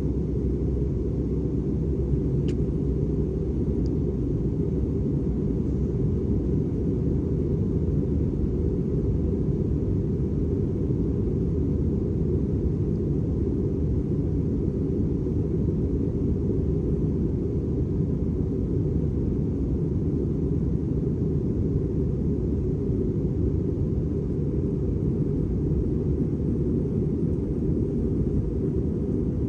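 Steady low rumble of an Airbus A320 in flight: engine and airflow noise.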